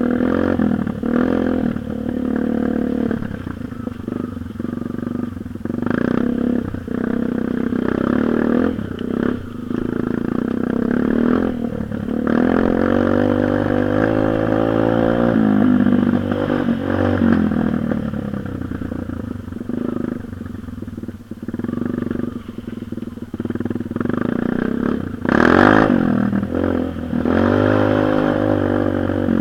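Dirt bike engine running and revving, its pitch repeatedly rising and falling, with one louder rev about 25 seconds in.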